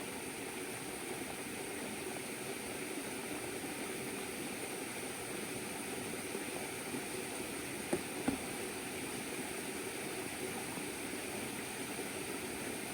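River water flowing steadily, with a couple of brief knocks about eight seconds in.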